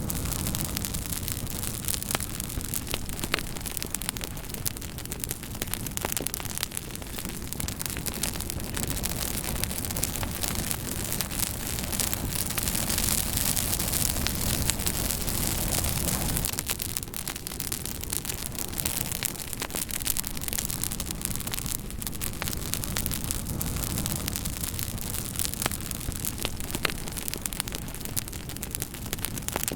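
Campfire burning, with frequent sharp crackles and pops over a steady hiss and low rumble. About twelve seconds in the hiss swells for a few seconds, then settles back.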